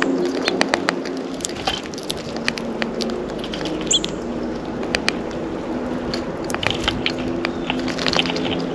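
Birds at a seed feeder: many sharp, irregular clicks and taps of beaks and feet on the feeder and seed, with a short high bird chirp about four seconds in, over a steady low hum.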